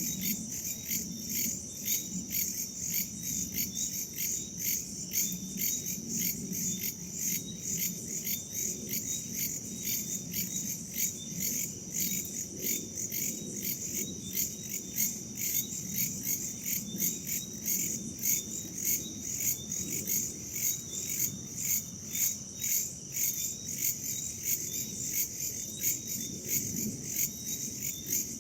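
Crickets and other insects chirping in a dense chorus of fast, even pulses, with a soft low rush of wind beneath.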